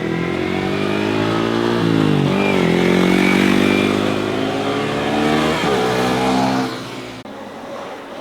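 Motorcycle engine accelerating hard past, the revs climbing with a quick dip for a gear change about two seconds in and another near six seconds, then fading away as it leaves.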